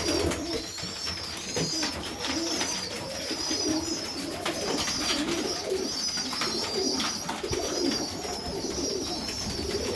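Serbian highflyer pigeons cooing in a loft, over a continuous high, wavering cheeping from a squab begging as an adult feeds it.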